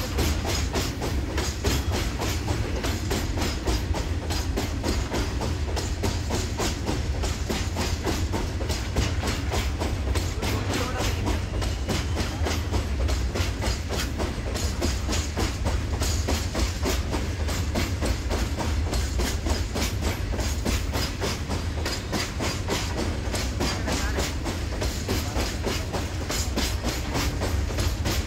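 Open-top freight wagons rolling past at close range: a steady low rumble with a rapid, continuous clatter of wheels over the rail joints.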